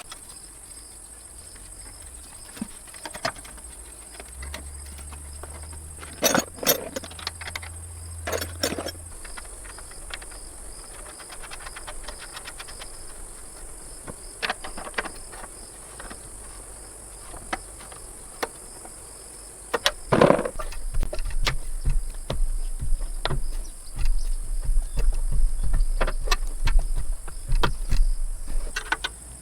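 Insects trilling steadily at a high pitch, with scattered sharp clinks and knocks. A louder, denser run of rattling knocks over a low rumble starts about two-thirds of the way in.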